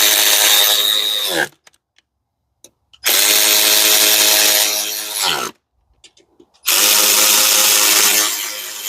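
Electric power drill or driver running in three bursts of about two and a half seconds each, holding a steady pitch and then winding down with a falling pitch at the end of each burst.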